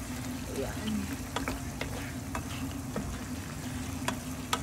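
Chicken gizzards, hearts and tails sizzling in adobo sauce that has cooked almost dry, with scattered sharp pops and ticks over a steady low hum.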